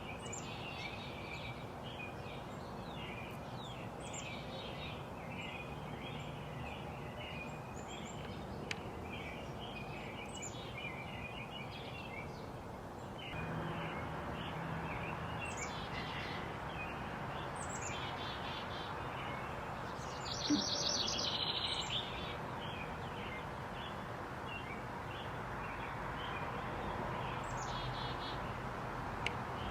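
Several backyard birds chirping, with short high whistles that slide downward every few seconds and a louder, brief high trill about twenty seconds in. Underneath runs a steady background hiss that gets a little louder about thirteen seconds in.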